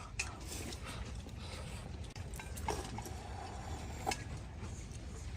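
A few soft clicks and knocks of kitchen utensils and dishes being handled, spaced out over a low background hum.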